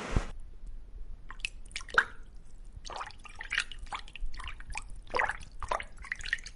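Irregular drips and small splashes of water, a string of short uneven plops.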